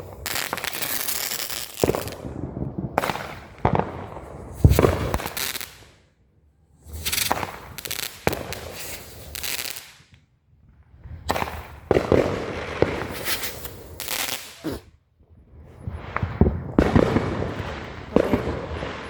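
Consumer fireworks going off in several loud rounds of crackling and sharp bangs, with short breaks of a second or so between rounds.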